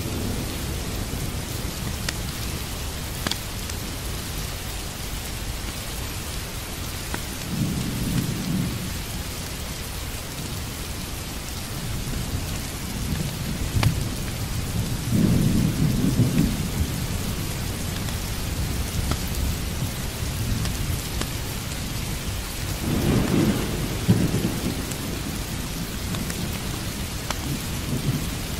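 Steady heavy rain with low rolls of thunder swelling up three times, about a third, halfway and four-fifths of the way through. A few sharp crackles of a wood fire in a fireplace sound over the rain.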